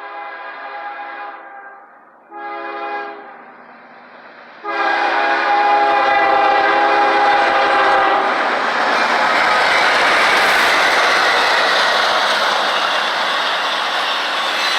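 Air horn of a CSX GE ES40DC locomotive sounding a chord: a held blast fading out about a second and a half in, a short blast a second later, then a long, loud blast from about five seconds in. After that, the loud, steady noise of the passing intermodal train's diesel and wheels takes over.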